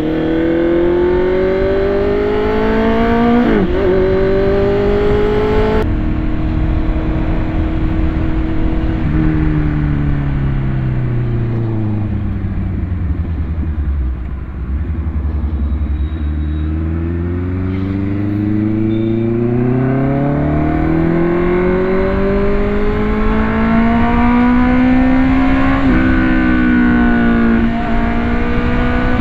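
BMW S1000RR's inline-four engine with a modified exhaust, revs rising through the gears with a quick upshift about three and a half seconds in. It holds, then winds down over several seconds as the bike slows, and climbs again with another shift near the end.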